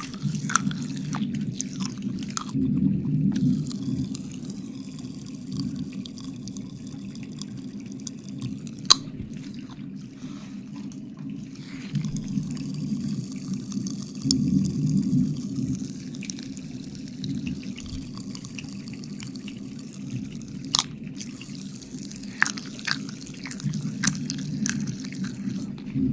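Wet mouth sounds close to the microphone: scattered licking and smacking clicks over a low, swelling rumble, with two sharper clicks about 9 and 21 seconds in.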